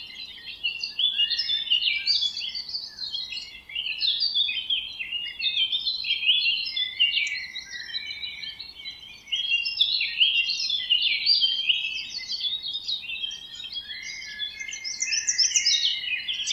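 Many small songbirds chirping and trilling at once, a dense, continuous chorus of overlapping high-pitched calls.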